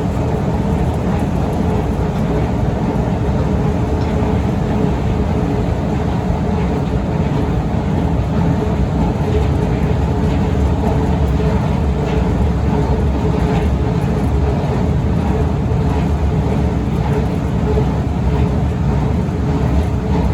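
Long Otis escalator running steadily: a continuous low rumble of the moving steps with a faint steady hum over it.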